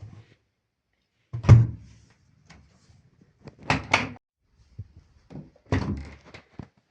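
Separate clunks and thuds from a Samsung Eco Bubble washing machine, with the loudest, deepest thud about a second and a half in and a quick double knock near the middle.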